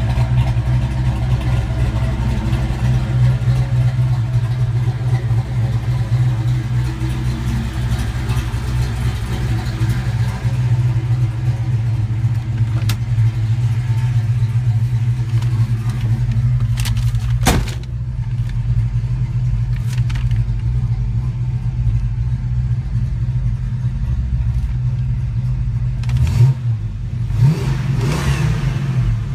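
1969 Dodge Coronet Super Bee's V8 idling steadily, with a sharp knock a little past halfway. The throttle is blipped briefly twice near the end.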